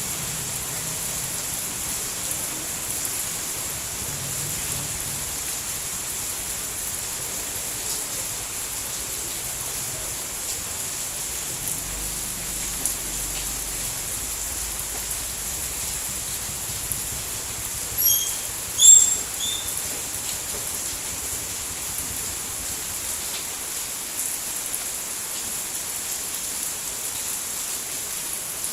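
Steady rain, an even hiss. About two-thirds of the way through comes a brief cluster of short, high chirps, the loudest sounds here.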